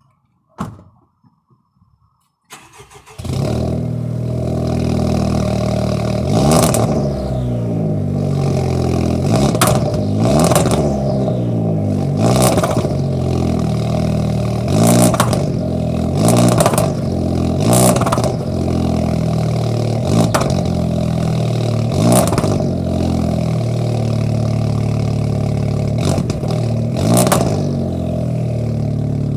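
Honda Civic Type R FK2's turbocharged 2.0-litre four-cylinder with a decat exhaust starting up about three seconds in and settling to idle. It is then blipped about a dozen times, each a quick rise and fall in revs.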